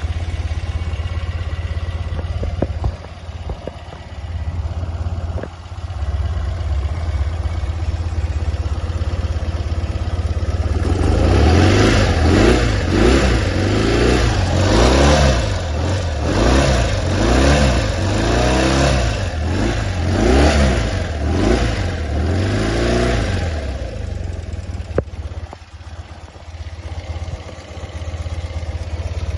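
A 1985 BMW R80 G/S Dakar's air-cooled boxer twin idling while warming up from a cold start. About a third of the way in, the throttle is blipped about ten times in quick succession, each rev rising and falling, before the engine settles back to a steady idle.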